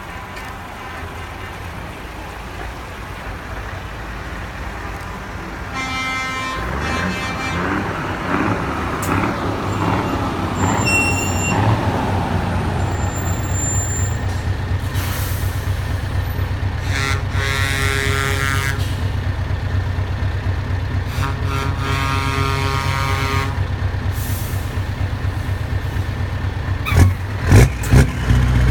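Heavy trucks' diesel engines running, the rumble growing louder a few seconds in, with multi-tone air horns blown three times and short hisses of released air.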